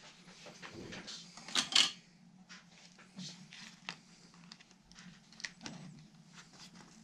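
Small metal tools and parts being handled on a workbench: irregular light clicks and clinks, with a couple of sharper clicks about a second and a half in, over a faint steady hum.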